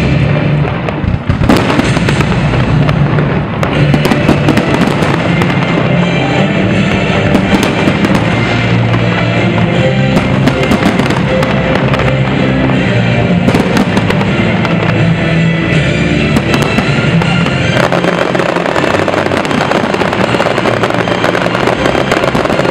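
Aerial fireworks bursting and crackling continuously over loud music, with the crackle growing denser near the end.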